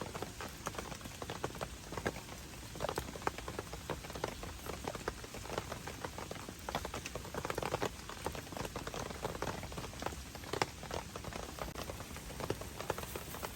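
Heavy rain falling steadily, with many separate drops striking irregularly.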